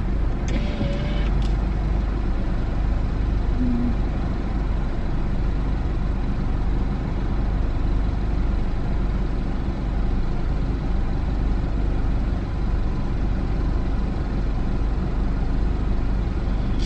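Car engine idling, heard from inside the cabin as a steady low rumble while the car stands still.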